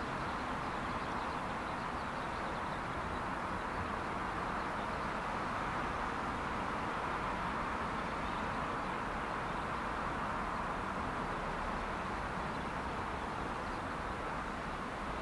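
Steady rushing running noise of a passenger train, even throughout with no separate wheel clicks.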